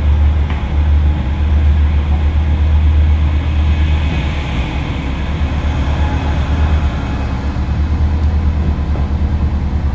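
Diesel train running along the San'in Line, a steady low rumble with a faint hiss above it that swells a little midway.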